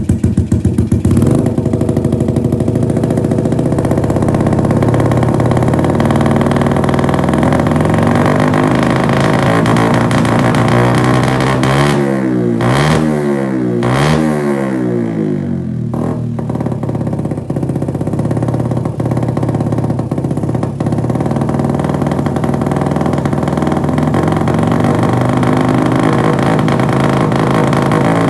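Yamaha Jupiter MX motorcycle's single-cylinder four-stroke engine idling through an aftermarket RCB stainless steel exhaust, revved up and down twice about halfway through.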